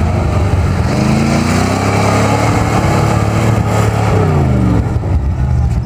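1968 International 4x4 pickup's engine revving up over about three seconds, then dropping back in pitch about four seconds in.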